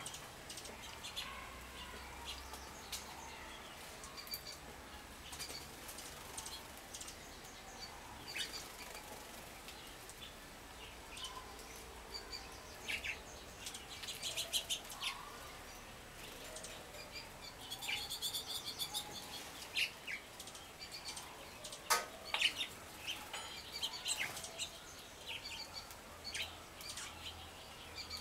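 Several small songbirds chirping and calling in short high notes, busier in the second half, with scattered light clicks and wing flutters. A sharp click comes about three-quarters of the way through.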